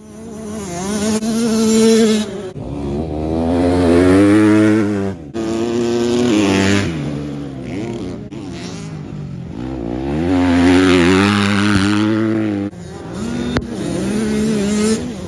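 Dirt bike engine revving hard, its pitch climbing and dropping back several times as it pulls through the gears.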